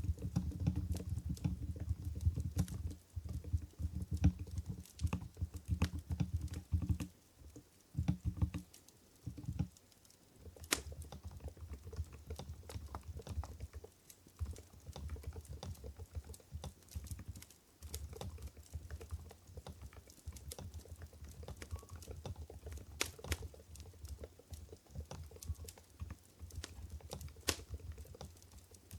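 Typing on an Mstone Groove GV10 electro-capacitive keyboard with silenced 45 g Coral switches: a steady run of soft, muted keystrokes. It thins to a brief lull about a quarter of the way in, then picks up again.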